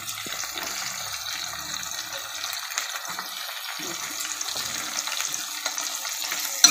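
Tomatoes and green chillies frying in oil in a metal pan: a steady sizzling hiss, with a sharp knock of the steel spoon against the pan near the end.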